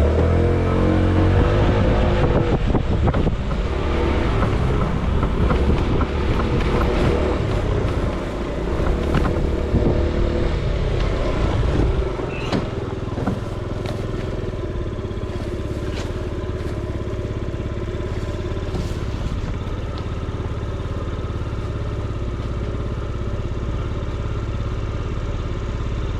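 Motorcycle engine pulling away and running for about twelve seconds, then going on quieter and steady.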